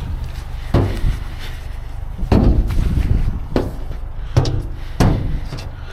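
Steel dumpster being opened and handled: about five heavy bangs and thuds, several with a short metallic ring, over a steady low rumble.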